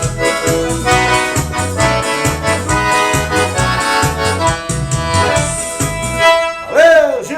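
Forró band playing, with accordion over a pulsing bass beat; the beat stops about six seconds in as the song finishes, and a loud note bends up and back down near the end.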